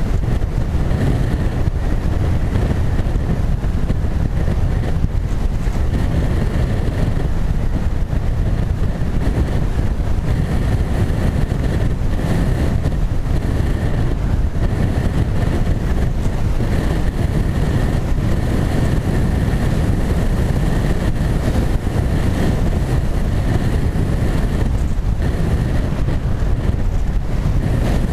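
Onboard sound of a small foam flying wing in flight: steady wind rush on the camera microphone, with a faint high whine from its motor and propeller that fades in and out.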